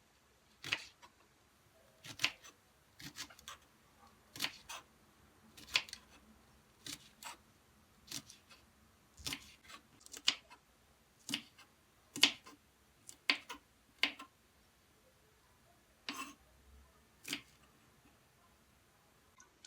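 A series of sharp clicks and light knocks, roughly one a second and irregularly spaced: small hard household objects being handled and set down.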